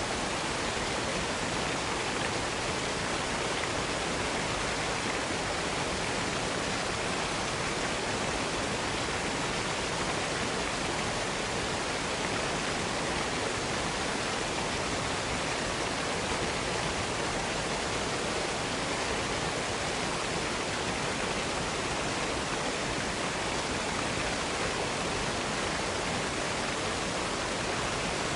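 Waterfall cascade: a steady, even rush of falling water.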